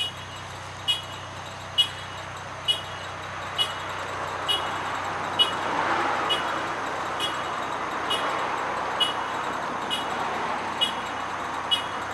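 Route bus, a Hino Rainbow, running near the stop; its engine and road noise swell around the middle. A sharp tick repeats steadily about once a second throughout.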